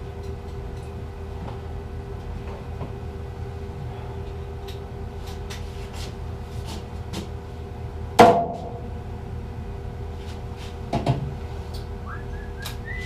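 Knocks and clunks from handling the plastic furnace flue pipe and elbow while checking for a blockage, over a steady machine hum: light taps throughout, a sharp loud knock about eight seconds in and a softer clatter about three seconds later.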